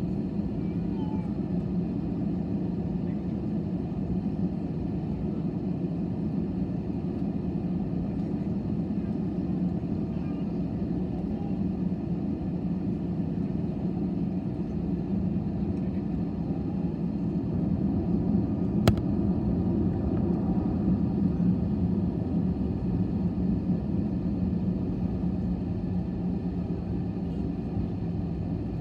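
Steady rumble of a jet airliner's cabin, engines and airflow running evenly with a low hum. A single sharp click about two-thirds of the way through.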